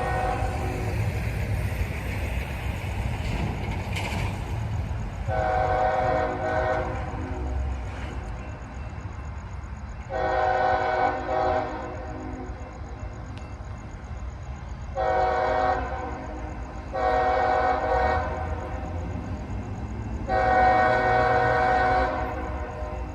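A GE ES44AH diesel locomotive's Nathan K5HL five-chime air horn sounds five blasts of about a second and a half each, spaced several seconds apart, over the steady low rumble of the locomotive.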